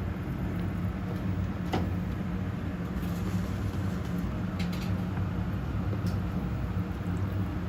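A motor running steadily with a low hum, with a few light clicks or taps over it.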